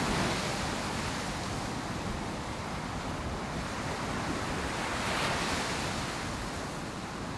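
Ocean surf on a beach: waves breaking and washing up the shore, one swelling at the start and another about five seconds in.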